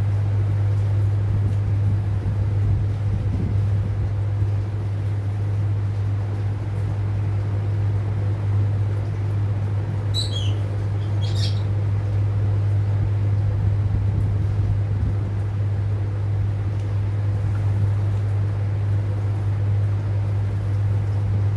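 A steady low hum runs throughout. About halfway through, a rosy-faced lovebird gives two short, high chirps about a second apart.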